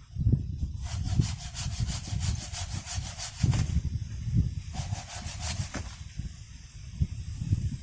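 Rapid, rhythmic rasping strokes on wood in two runs, the first about two and a half seconds long and the second about a second, over a steady low rumble.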